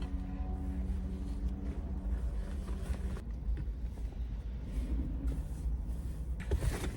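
Steady low rumble of a car, with faint background music that stops about three seconds in.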